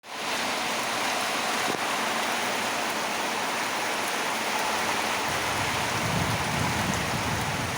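Heavy rain falling steadily, a dense even hiss of drops on surfaces, fading in at the very start. A low rumble swells underneath for a couple of seconds in the second half.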